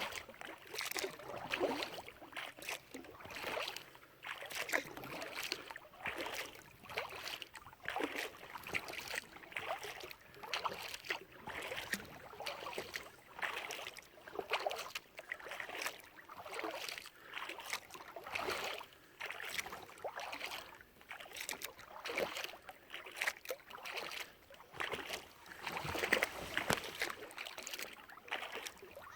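Kayak paddle strokes in the water, a splash and rush about once a second in a steady rhythm.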